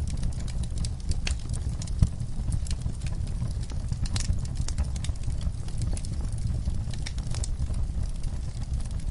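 Wood fire burning in a fireplace: irregular crackles and pops of the burning logs over a steady low rumble, with one sharper pop about two seconds in.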